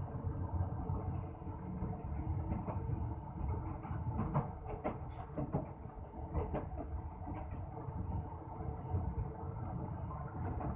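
A passenger coach of the Musa Pak Express running at speed, heard from inside: a steady low rumble of wheels on rail, with a cluster of sharp clacks around the middle.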